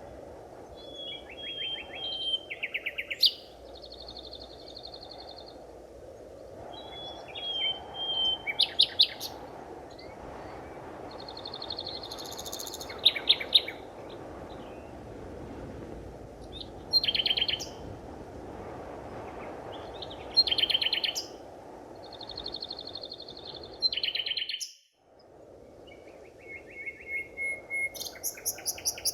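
Forest birdsong: a bird repeats a short phrase every few seconds, clear whistled notes running into fast rattling trills, over a steady low background rush. The sound briefly cuts out about 25 seconds in.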